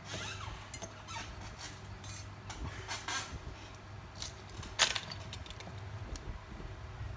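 Small metal tools clicking and clinking against a repair bench, in scattered light taps with one sharper click near the five-second mark, over a steady low hum.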